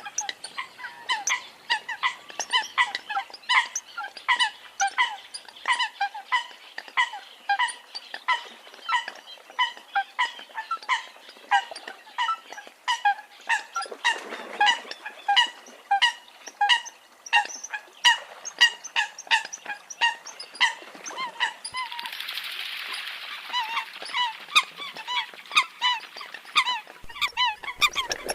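Eurasian coots calling: short, sharp calls repeated rapidly, a few each second, with several birds overlapping. A brief rush of hiss comes in about 22 seconds in.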